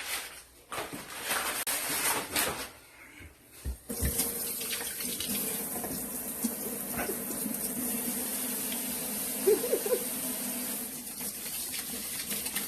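Kitchen tap running steadily into a sink, starting about four seconds in, after a few seconds of scattered clattering.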